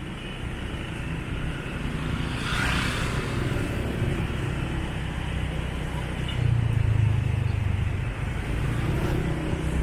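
Motorbike engine running steadily while riding on a road, with traffic noise; a short hiss swells about two and a half seconds in, and the low engine hum gets louder for about a second around two-thirds of the way through.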